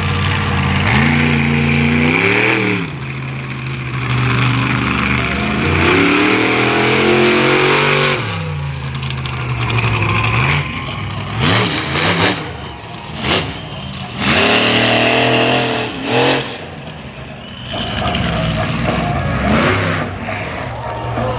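Monster truck engine revving hard, its pitch climbing and dropping as the throttle is worked. In the second half it gives a series of quick, sharp throttle blips.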